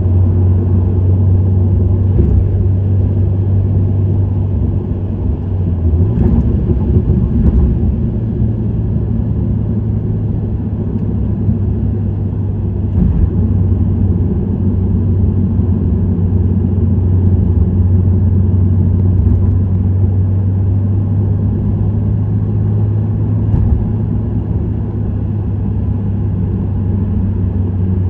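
Subaru WRX STI with an STI Performance muffler driving at a steady cruise: a low, steady exhaust and engine drone from its turbocharged EJ20 flat-four, with road noise, the pitch shifting slightly about six seconds in.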